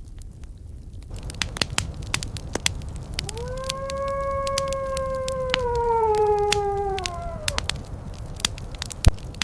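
Fireplace crackling, with sharp pops throughout over a low rumble. About three seconds in, a single long howl rises in, holds a steady pitch, then slides down and fades out over about four seconds. One loud pop comes near the end.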